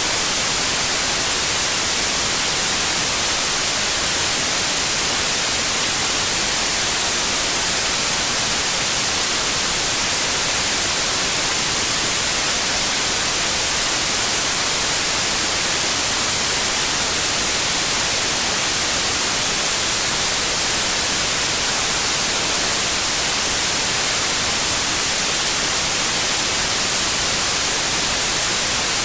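Steady synthetic white noise: an even, unbroken hiss, strongest in the treble, with no changes in level.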